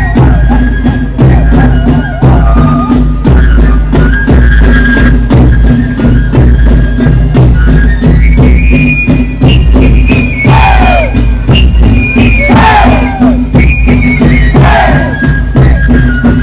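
Loud live traditional music: a high, held melody over a steady low drum beat. In the second half, short falling shouts come about every two seconds over the music.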